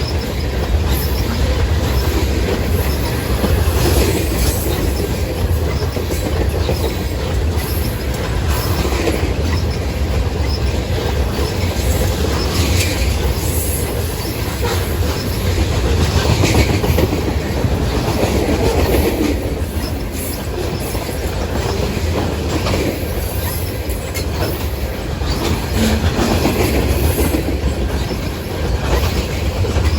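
Freight cars of a long manifest train rolling past at speed: a steady loud rumble of wheels on rail, with clickety-clack over the rail joints.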